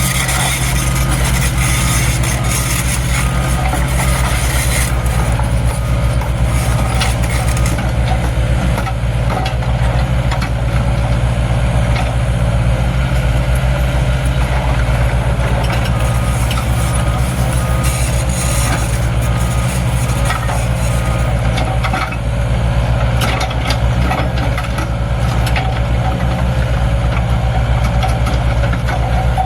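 Mini excavator's diesel engine running steadily while working, with scattered knocks and clanks.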